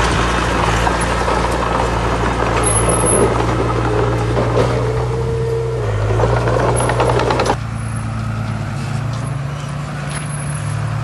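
Heavy diesel earthmoving machinery running steadily, with a loud rattling, scraping noise over it that cuts off suddenly about seven and a half seconds in, leaving the engine running on its own.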